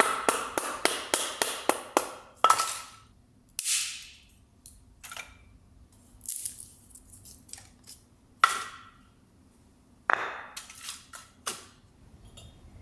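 A quick, even run of sharp tool strikes, about four a second, each with a short metallic ring, stops about two and a half seconds in. A few separate knocks and a scrape follow, scattered through the rest.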